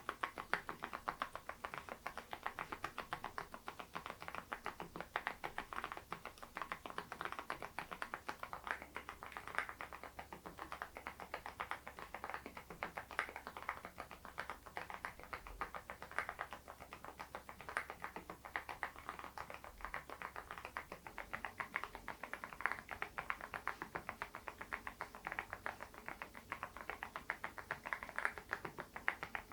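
Continuous typing on a Geekstar GKG87R tenkeyless mechanical keyboard with stock HMX Sunset low-noise switches: a steady, rapid run of keystrokes with no pauses.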